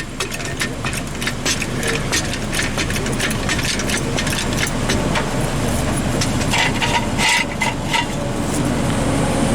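Car jack being worked to lift the car higher, giving a regular run of clicks at about three a second, with a cluster of louder metallic clicks around seven seconds in.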